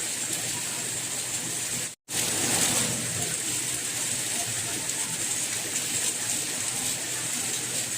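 Steady rain, an even hiss of falling water. About two seconds in the sound cuts out completely for a split second, then comes straight back.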